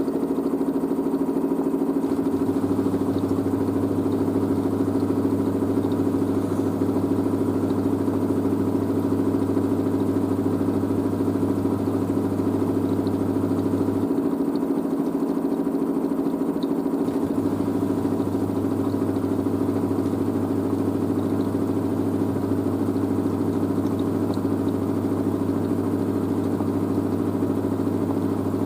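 LG DirectDrive washer dryer running mid-cycle with a steady machine hum; a deeper drone underneath cuts out for about three seconds midway, then comes back.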